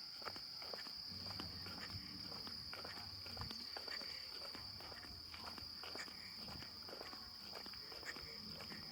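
Faint, irregular footsteps, with a steady high-pitched insect chirring behind them.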